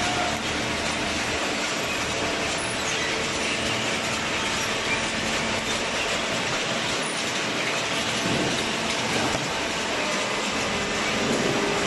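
Hydraulic carton box baler running: a steady mechanical noise with light clattering.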